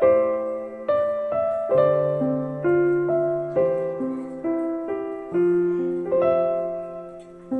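Background piano music: a slow, gentle melody of single struck notes and chords, each ringing and fading before the next.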